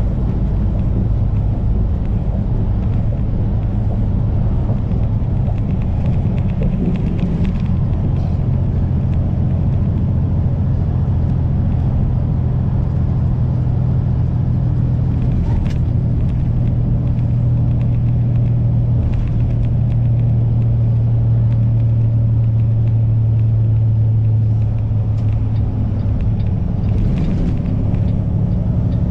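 Kenworth semi truck's diesel engine running steadily under way, a low drone with road noise. The drone grows a little louder and steadier between about 18 and 24 seconds in.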